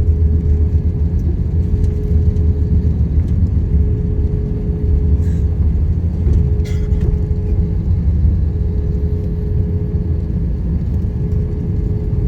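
Steady low rumble inside the cabin of an Airbus A321 airliner, with a constant hum tone over it and a couple of faint clicks about midway.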